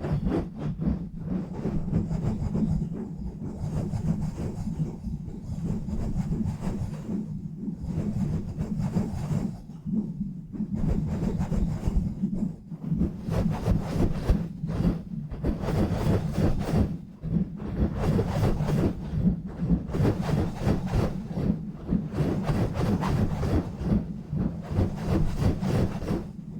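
Fast, rough rubbing and scratching directly on a bare microphone with no windscreen or filter, a dense run of quick strokes that booms low and pauses briefly a few times.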